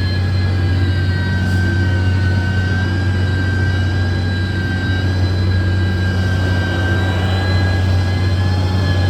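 Heavy road-construction machine's diesel engine running steadily under load: a loud, even low rumble with a high whine held over it.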